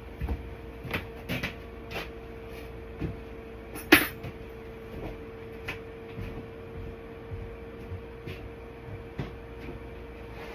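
Scattered knocks and clunks of feed buckets and bags being moved and handled, with one loud clunk about four seconds in, over a steady faint hum.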